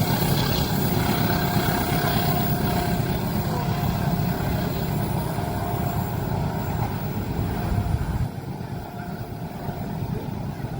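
Train passing close by at speed, a heavy steady rumble of wheels and rails with a faint thin steady tone over it, dropping off sharply about eight seconds in.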